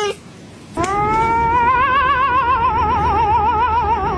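Domestic cat yowling: the tail of a short meow, then a single long, drawn-out yowl that wavers steadily up and down in pitch.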